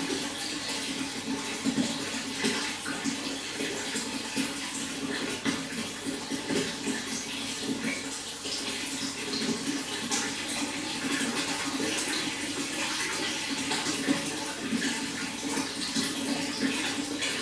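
Running water flowing steadily, a constant rush full of small splashes and gurgles.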